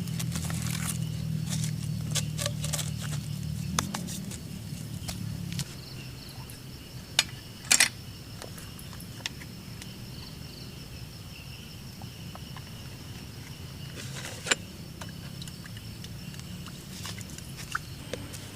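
Scattered sharp clicks and knocks, the loudest a quick pair about eight seconds in, over a steady thin high whine. A low hum underneath stops about five and a half seconds in.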